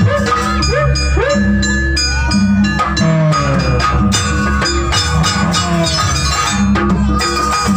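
Janger gamelan music: metal mallet-struck instruments ringing over a steady low drum beat, with a few short sliding tones in the first seconds.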